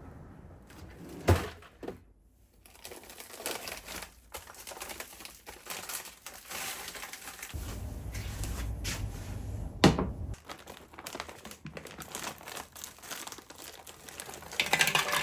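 Crinkling and rustling of packaging being handled, with a sharp knock about a second in and another near ten seconds in.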